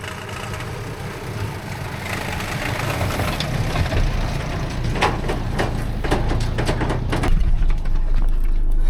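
SsangYong Kyron 2.0 turbodiesel engine running at low speed under hill descent control, with a cluster of sharp clicks in the middle and a deeper, louder rumble setting in near the end.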